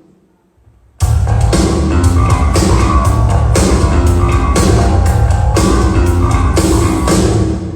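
Live band with drum kit, bass and guitar playing a loud rock groove during a sound check. It comes in about a second in with regular drum hits, stops near the end, and rings out.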